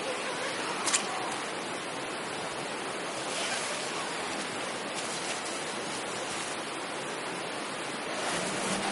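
Steady rushing noise, with a single sharp click about a second in.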